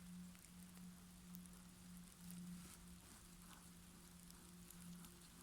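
Near silence: a faint steady low hum with scattered light ticks and crackles.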